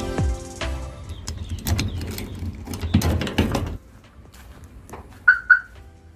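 Two short, loud electronic beeps a quarter second apart, like a car's remote-lock chirp, heard after background music cuts off about four seconds in.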